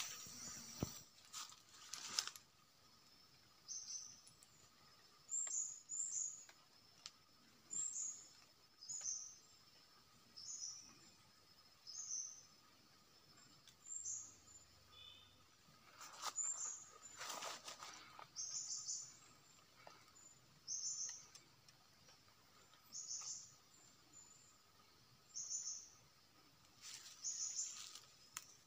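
A bird chirping over and over, a short high chirp about every second. A couple of brief bursts of rustling and crackling from the trap's sticks being handled break in, the loudest in the middle.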